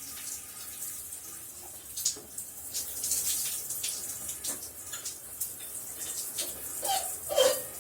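Shower running: a steady hiss of spraying water with many small spattering streaks. Near the end there is a brief louder sound with some pitch to it.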